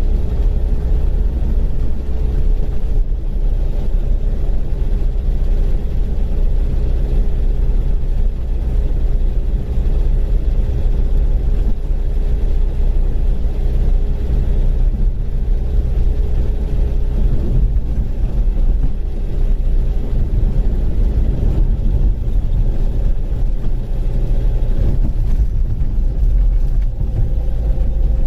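Rover Mini running with a low, steady rumble and a steady whine through it that rises slightly near the end. The car has an abnormal noise (異音).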